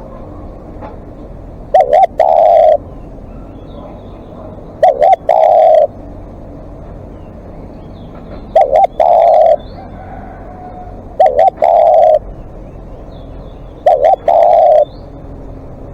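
Spotted dove cooing, five repeated phrases about three seconds apart, each two short coos followed by a longer one. Faint chirps of other birds sound in the background.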